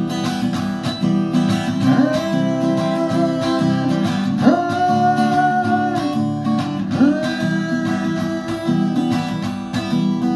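Acoustic guitar strummed steadily under a song, with a long-held melody line of three sustained notes, each sliding up into its pitch.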